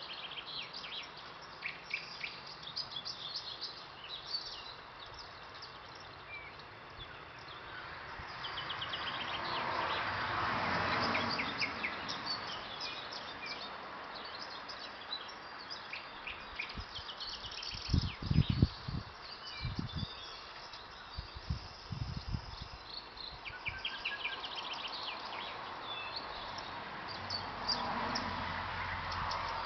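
Thrush nightingale singing: repeated rapid clicking and rattling phrases with trills, phrase after phrase. A low rushing swell of noise rises and fades twice, and a few loud low thumps come about two-thirds of the way through.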